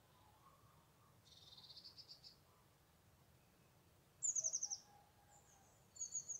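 Songbirds singing: a short high trill about a second in, a louder quick run of high notes falling in pitch around four seconds in, and a few more high notes near the end.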